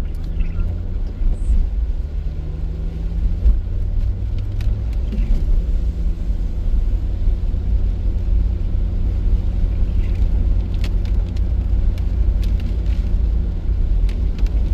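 Car being driven, heard from inside the cabin: a steady low rumble of engine and tyres with a constant low drone, and a few sharp ticks now and then.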